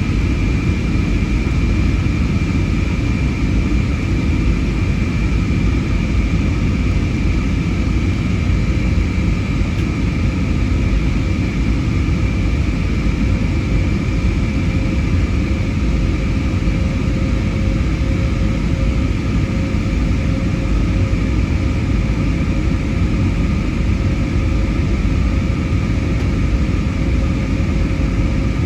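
Steady cabin noise of an Airbus A320neo in flight, heard inside the cabin: a constant low rumble of airflow and its CFM LEAP-1A turbofan engines, with a few steady whining tones above it. A further low whine comes in about halfway.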